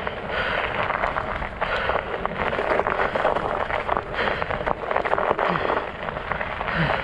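Studded fat-bike tires rolling, with a steady rough crunching crackle of many small clicks.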